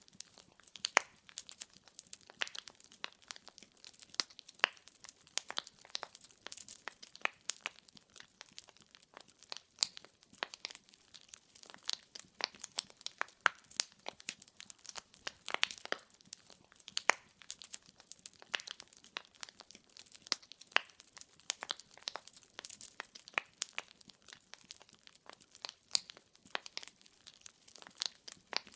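Firewood logs crackling and popping in a fireplace: many sharp, irregular pops several times a second, with a few louder snaps.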